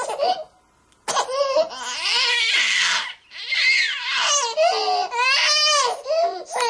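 Baby crying in repeated drawn-out wails. The crying breaks off into near silence for about half a second early on, then resumes with a harsher, raspy scream before the wails go on.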